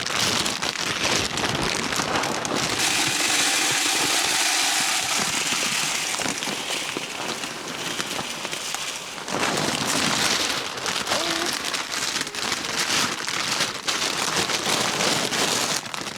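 Chicken feed being poured into a feeder: a dense, pattering rush of grains, smoothest and steadiest through the middle, with looser rattling clicks before and after.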